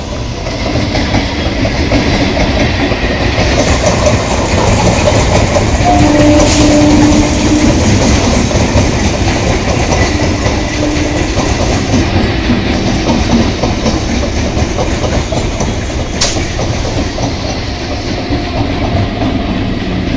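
Eastern Railway EMU suburban local train passing close by: steady rumble and clatter of the wheels on the track, growing to its loudest about six to eight seconds in and staying loud as the coaches go past.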